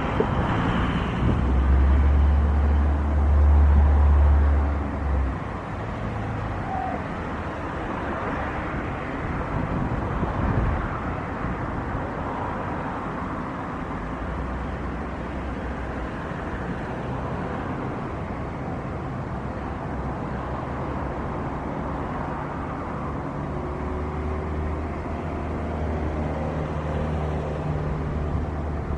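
Wind buffeting the microphone over a steady outdoor roar, the buffeting heaviest in the first few seconds.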